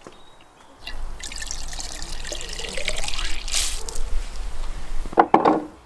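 Liquid being poured steadily into a container, its pitch rising as the vessel fills, followed near the end by a brief louder sound.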